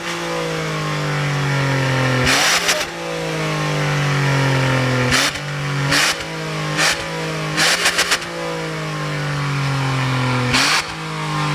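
Exhaust of a Mitsubishi Outlander XL 3.0 V6 with the engine revved hard under full throttle. Its steady, high note slowly sags and jumps back up with a sharp crack, about six times.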